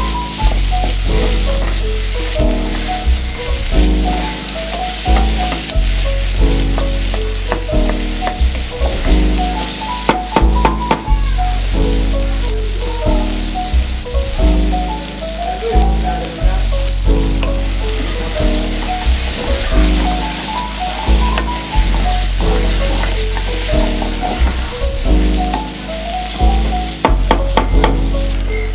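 Chicken pieces, garlic and onion sizzling as they fry in oil in a saucepan, stirred with a wooden spoon, under louder background jazz-style beat music with a steady pulsing bass.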